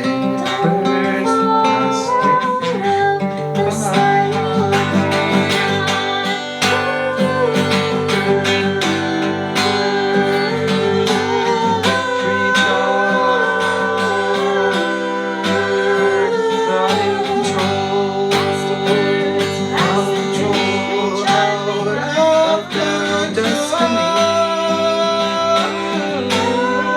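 Live band music: a strummed acoustic guitar with sustained melody notes held over it, in an instrumental break of a jam.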